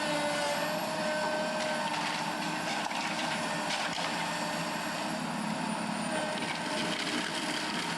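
Diesel engine of heavy demolition machinery running steadily, with a few faint knocks.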